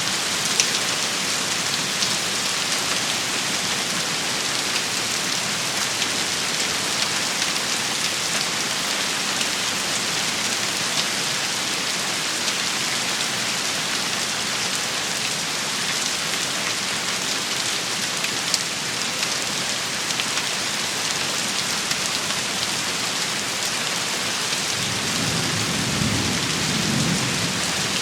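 Steady rain shower hissing, with scattered sharp ticks of drops striking. A low rumble of thunder comes in near the end.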